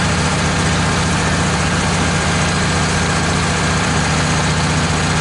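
Wood-Mizer LT15 portable sawmill's engine running steadily.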